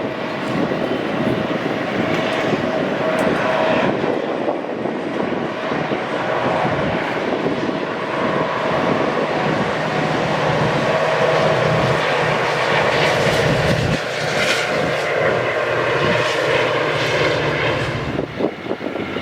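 A train passing, with a steady loud rumble of wheels and running gear and a few held tones over it.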